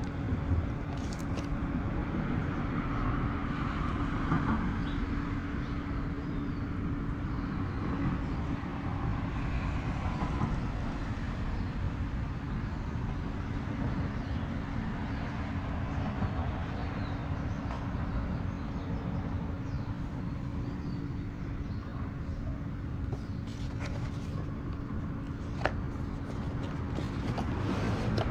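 Steady low rumble of a running motor vehicle with a constant hum, and a few faint clicks near the end.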